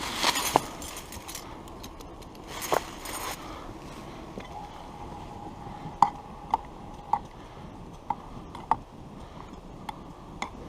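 Light metallic clinks of a spoon against camping tea things. About a dozen irregularly spaced clicks, each with a brief ring.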